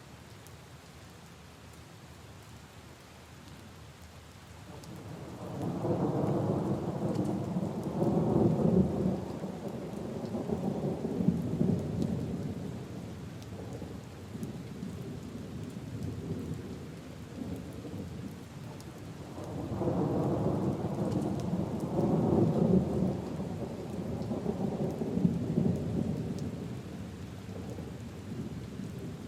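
Steady rain falling on leaves and puddles, with two long rolls of thunder, one beginning about five seconds in and a second about twenty seconds in.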